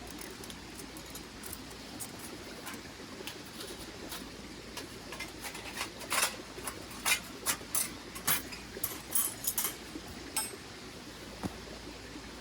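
Small mountain stream running steadily, with a quick run of sharp clicks and rattles, like gear being handled, from about five to ten seconds in.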